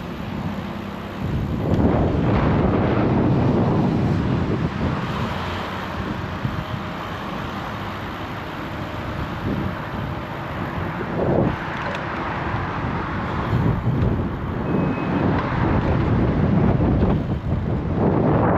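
Wind rushing over a bicycle-mounted GoPro's microphone together with street traffic, which swells and fades a few times as vehicles pass.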